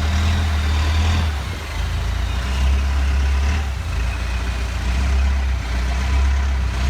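Boat engine running with a steady low drone under a hiss of water and wind; the drone eases briefly about a second and a half in and again around four seconds.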